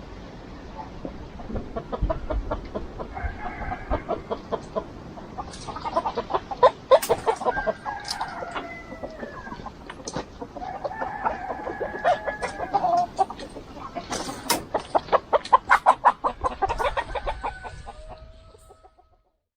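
Flock of free-range chickens clucking in quick runs of short calls, with drawn-out calls that sound like a rooster crowing mixed in; the sound fades out near the end.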